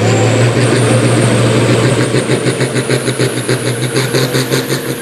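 Engine of a pulling vehicle running, with a high whistle that slowly rises. From about two seconds in, the sound pulses about four times a second.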